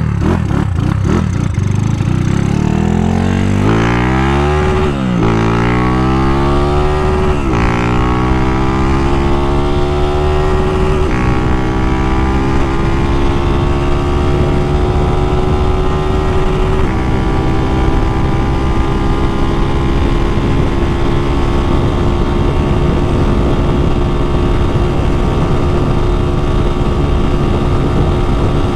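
Single-cylinder 240cc OHC engine of a modified Honda Titan motorcycle with a GRS racing exhaust, accelerating hard. The revs climb and fall back three times as it shifts up through the gears, about 5, 7.5 and 11 seconds in, then settle and hold high while cruising. Wind rush runs underneath.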